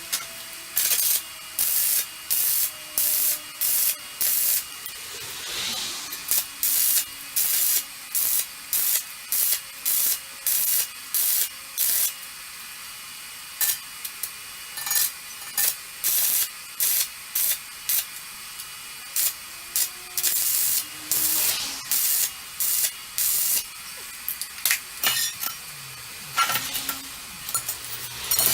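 Semi-automatic (MIG) welder arc crackling in short stitch bursts, about two a second, each cut off sharply when the trigger is released, with a few short pauses between runs.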